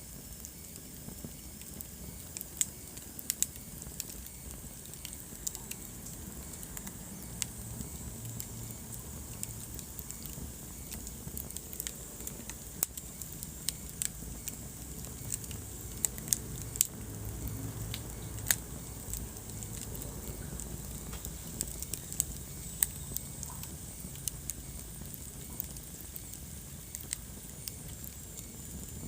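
Wood fire burning in a fireplace, crackling and popping with sharp, irregular snaps over a steady low rumble of the flames.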